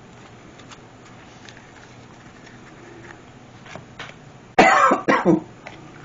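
A woman coughing, two or three quick loud coughs about four and a half seconds in, after faint small handling clicks.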